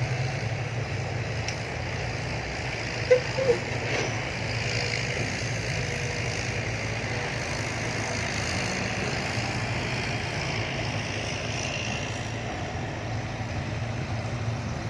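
Diesel dump truck engine idling steadily with a low, even rumble. Two short squeaks come about three seconds in.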